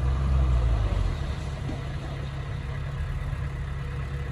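Diesel engine of heavy earthmoving equipment running with a low rumble, louder for about the first second, then steady.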